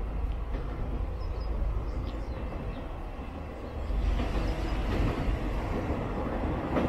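Yosan Line electric train approaching, a low rumble that grows louder about four seconds in.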